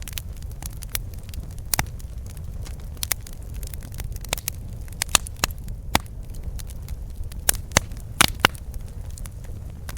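Campfire burning, with irregular sharp crackles and pops from the burning wood over a steady low rumble of the flames. The loudest pops cluster in the middle of the stretch.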